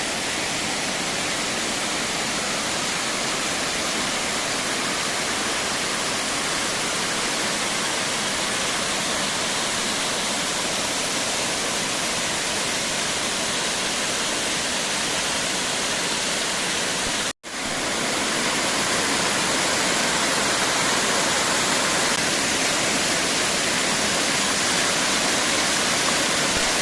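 Waterfall: a steady, even rush of falling water that breaks off for an instant about two-thirds of the way through, then carries on slightly louder.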